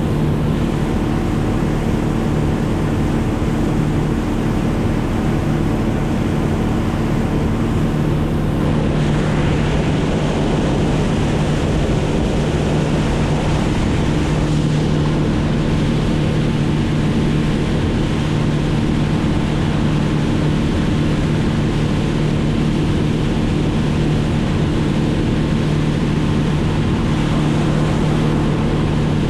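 Motor running steadily at a constant speed, its drone carried over a continuous rush of wind or water noise.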